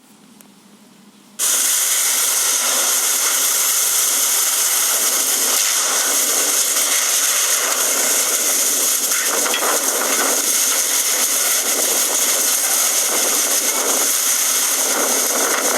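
Heavy rain pouring with strong wind, a loud steady hiss that starts abruptly about a second and a half in.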